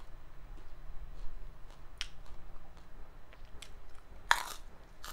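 Close-up chewing of crunchy fried chips, with scattered crisp crunches and one loud bite crunch about four seconds in.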